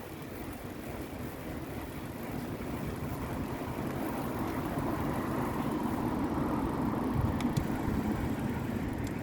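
Road noise heard from a moving bicycle, with wind rumbling on the microphone. A passing motor vehicle grows steadily louder through the middle and latter part.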